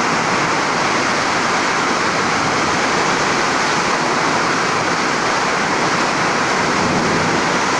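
Floodwater rushing with a loud, steady roar.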